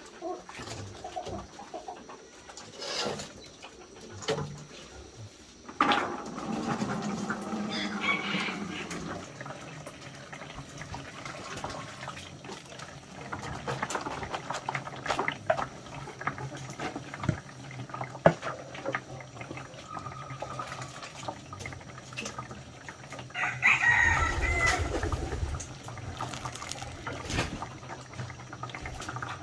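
A rooster crowing twice, about six seconds in and again near twenty-four seconds, with scattered knocks and clatter between.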